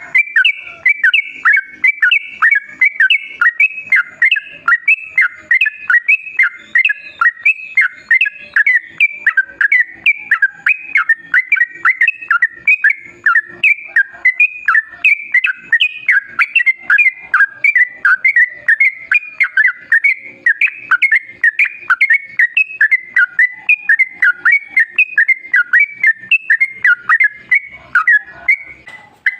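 Yellow-vented bulbul (trucukan) song: a long, unbroken string of short, chirpy notes, several a second, delivered in a rapid continuous roll.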